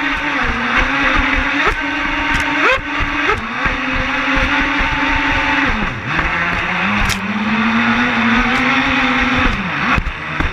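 Twin 5200kv brushless electric motors of a Genesis 72 RC catamaran whining at steady high throttle over a hiss of water. The whine jumps up in pitch briefly about two and three seconds in, dips around six seconds and settles lower, then dips again near the end.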